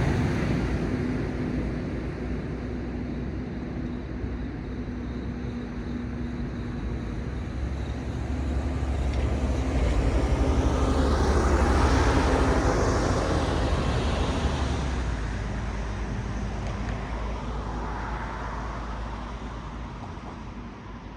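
Cars passing on a road: the tyre and engine noise of one car fades away at the start, then another approaches, passes about ten to thirteen seconds in and fades off, over a steady low traffic rumble and hum.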